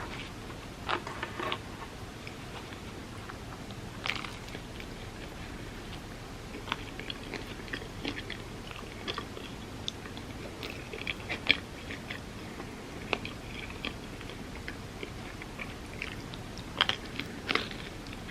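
Close-miked eating sounds: bites and chewing with crisp crunches, scattered irregularly over a steady background hiss. The sharpest crunches come about a second in, around the middle and near the end.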